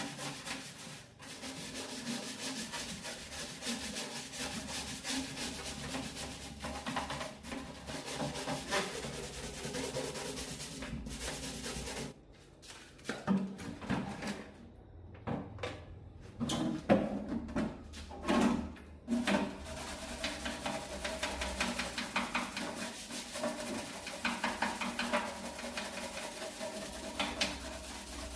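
Steady rubbing or scrubbing, with a short lull about twelve seconds in, then scattered separate scrapes and quick repeated strokes near the end.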